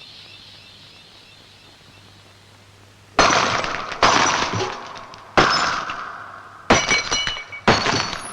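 A faint fading hiss, then glass smashing five times in quick succession, each crash decaying with high ringing tinkles of shards.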